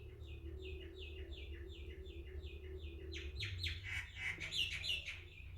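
A bird singing: a run of short falling notes at about three a second, breaking into a busier, jumbled burst of notes in the last two seconds, over a low steady hum.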